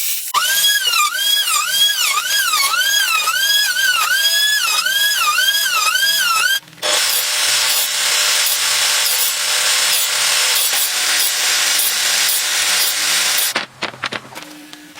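Woodworking tools on wood. First come rhythmic strokes, about two a second, each with a ringing pitch that dips and rises. Then, after a brief break, a steady hissing power-tool noise runs for about seven seconds and stops shortly before the end.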